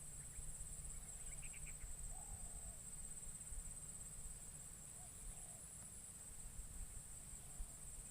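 Spotted dove cooing faintly, a few short arched coos spaced a couple of seconds apart, over a steady high-pitched insect drone. A small bird chirps briefly about a second and a half in.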